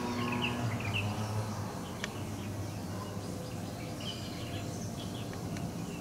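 Birds chirping: short, high calls in a quick cluster near the start and another about four seconds in, over a steady low hum.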